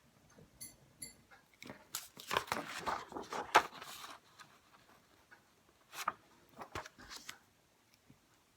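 Paper rustling and scraping for a couple of seconds, then a few light taps.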